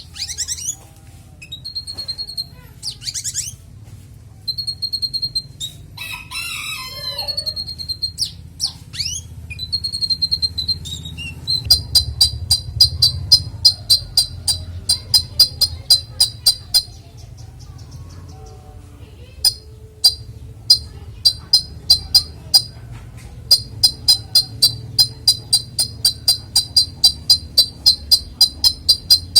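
Konin songbird singing through its repertoire of imitated calls: varied whistles and sliding notes at first. About eleven seconds in, it switches to a fast run of sharp repeated notes, about three a second, which break off briefly and then resume.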